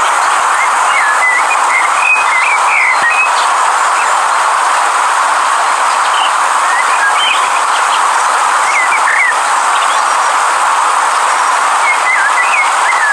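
Steady rushing of a river, with birds chirping off and on over it in short up-and-down notes, in small clusters near the start, in the middle and near the end.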